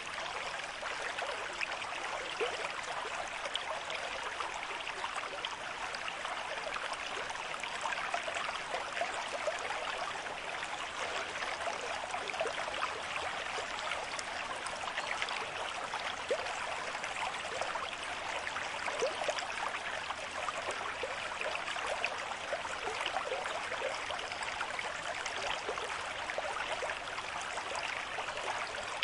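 A river stream with moderate flow: steady rushing water, with lively trickling and splashing all through it.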